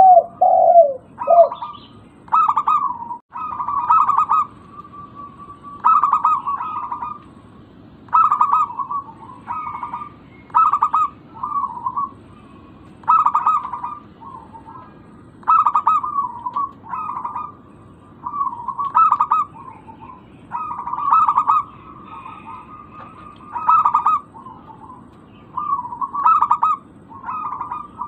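Zebra dove cooing: short phrases of quick, clipped cooing notes, repeated every two to three seconds.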